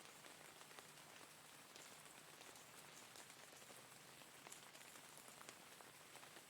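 Faint, steady rainfall: an even hiss of rain with scattered distinct drop ticks.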